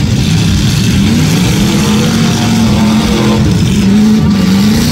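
Demolition derby car engines revving hard, their pitch rising and falling as the cars shove against each other.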